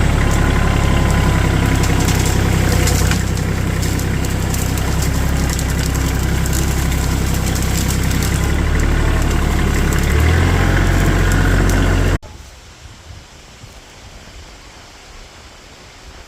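Kioti tractor's diesel engine running steadily, its note shifting about ten seconds in. It cuts off abruptly near the end, leaving wind noise on the microphone.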